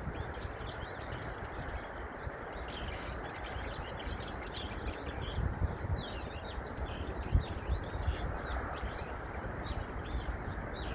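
Small birds chirping and twittering, many short quick calls overlapping one another, over a steady background hiss and an uneven low rumble.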